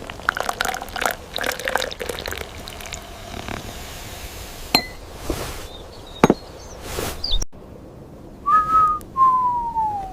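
Light clinks and taps of small cups and utensils, with a few sharp single clicks. Near the end come two short whistling tones, the second gliding down in pitch.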